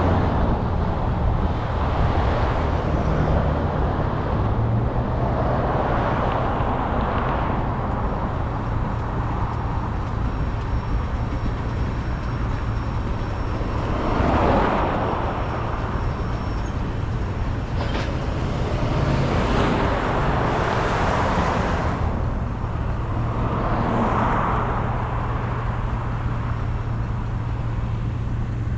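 Road traffic passing every few seconds over a steady low rumble from a slow-moving freight train, with a single sharp clank about two-thirds of the way in.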